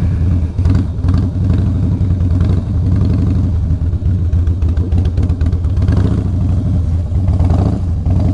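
Harley-Davidson V-twin motorcycle engine running at low speed close to the microphone, a steady low rumble with an uneven pulsing beat.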